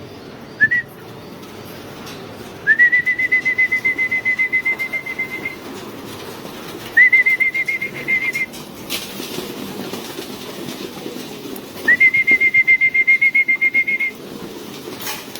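A trilled whistle calling homing pigeons into the loft: one short call, then three longer ones, each rising quickly and then holding one high, fast-warbling note. A sharp click comes about nine seconds in.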